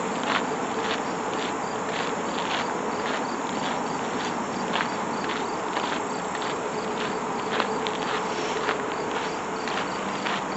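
Steady chorus of crickets and other insects, with regular soft steps about twice a second.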